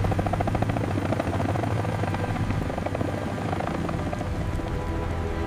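Rescue helicopter in flight: a steady, rapid rotor chop over a low engine drone.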